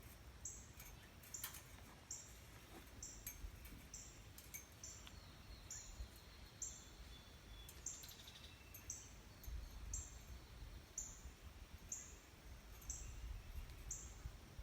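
Faint, high-pitched chirp of a small animal repeating steadily about twice a second, over a low rumble of wind.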